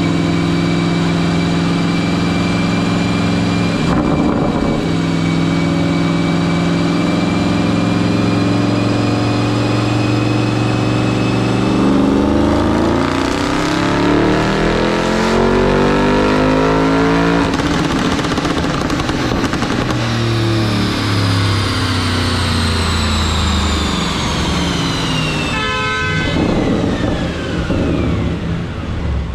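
2021 Audi RS7's twin-turbo 4.0-litre V8 on a chassis dyno. It runs steadily in gear, then makes a wide-open-throttle pull with the engine pitch climbing for about six seconds. After the lift-off, the rollers and tyres wind down with a high whine that falls in pitch to the end.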